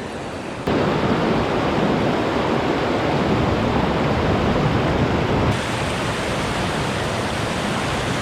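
Steady rushing of a swollen mountain stream running high after rain. It jumps abruptly louder about a second in and becomes a little quieter past halfway.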